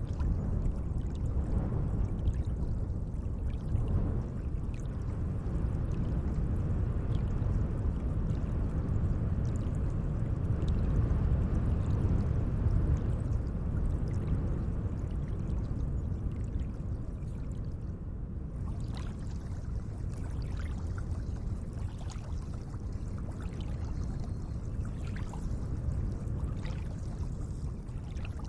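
Gentle lake water moving continuously, a steady low rush with small splashes and drips scattered through it.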